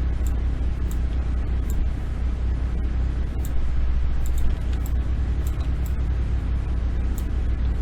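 Steady low hum with a faint hiss, the background noise of the recording setup, with short, light clicks scattered through it that fit mouse clicks.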